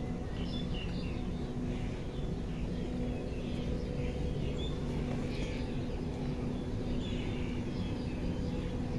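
Small birds chirping in short, repeated bursts over a steady low background rumble with a faint continuous hum.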